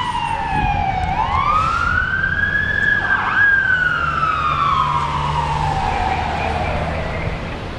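Fire engine siren wailing over the rumble of the truck's engine. The pitch falls, climbs again from about a second in, dips briefly a little after three seconds, then winds down slowly, and the sound fades a little near the end.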